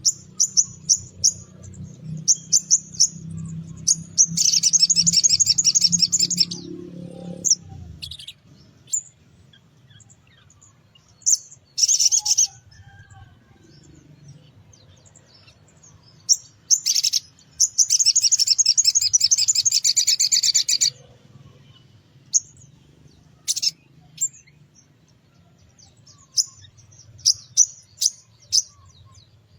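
Small songbird sold in Indonesia as a 'sogon pastol' singing: strings of short, sharp high chirps broken by two long, fast, dense trills, one about four seconds in and one past the middle. A faint low hum runs under the first several seconds.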